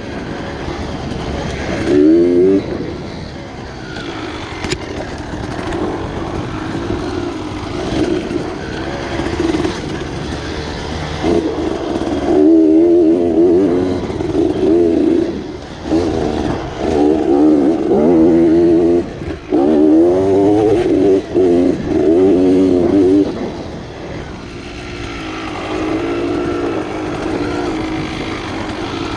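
Dirt bike engine running under load, its pitch rising and falling repeatedly as the throttle is worked. The revving is loudest and changes most in the middle stretch.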